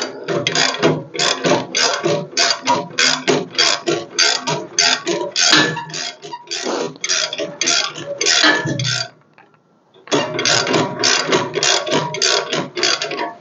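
A ratchet being worked in quick strokes, about three clicking strokes a second, stopping for about a second roughly nine seconds in and then starting again.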